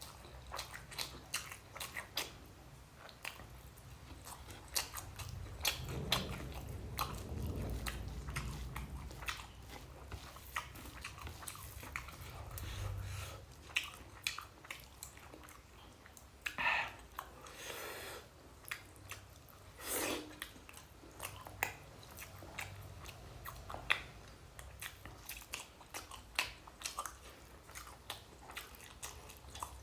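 A person chewing egg curry and rice eaten by hand, close to the microphone: irregular wet mouth clicks and lip smacks. A low rumble sits underneath for several seconds in the first half.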